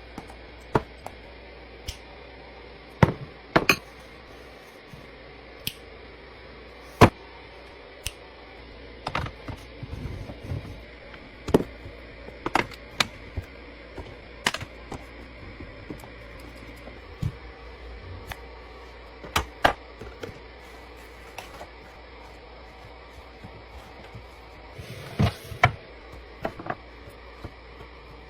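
Containers and food items being set down and arranged in a refrigerator: irregular sharp clicks and knocks, some in quick clusters, over a steady low hum.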